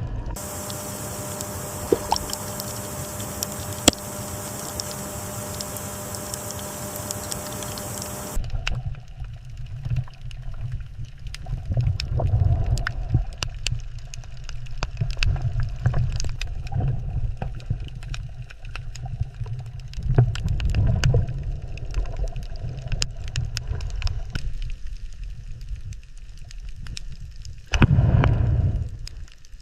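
Water gurgling and bubbling, a low rumble with scattered clicks. For about the first eight seconds a steady hiss with a hum lies over it, then cuts off suddenly.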